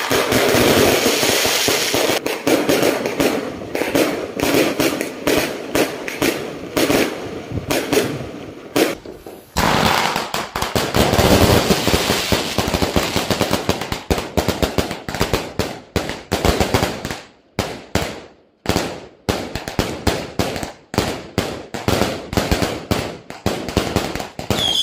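Aerial fireworks going off in a rapid barrage of crackling bangs, dense and continuous for about the first nine seconds. After a brief pause it is dense again, then thins into separate sharp bangs, several a second, through the second half.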